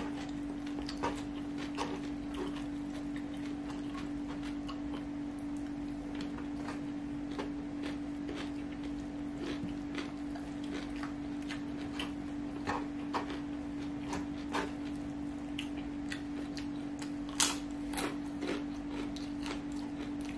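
Close-up eating sounds of a person chewing fried rice with mouth closed: scattered wet mouth clicks and lip smacks, a few louder ones near the end. A steady low hum runs underneath.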